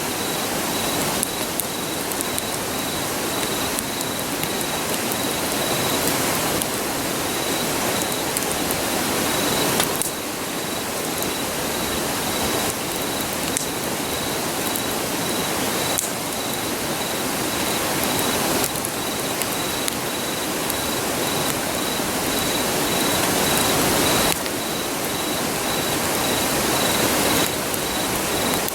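Steady rushing of a river, with an insect chirping in a fast, even high-pitched pulse on top and a few faint crackles from a wood campfire.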